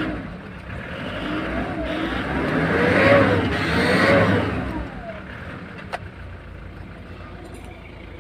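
Kia Sorento's D4CB four-cylinder diesel engine revved up and down several times, loudest about three and four seconds in, then settling to a steady idle. It is running again after a failed fuel injector was replaced and the fuel system bled. A sharp click comes about six seconds in.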